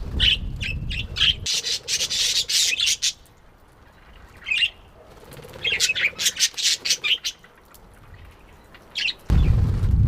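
Budgerigar chattering in runs of quick, harsh chirps and squawks, broken by short pauses. A low rumble sets in near the end.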